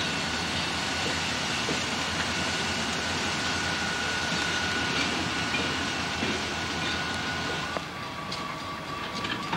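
CSX freight cars rolling past on the rails with steady wheel and car noise, a little quieter from about eight seconds in.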